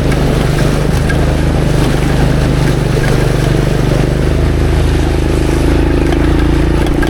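Off-road motorcycle engine running steadily as it rides through shallow, rain-swollen water, with a constant splashing, rushing noise. A higher engine note comes in about five and a half seconds in.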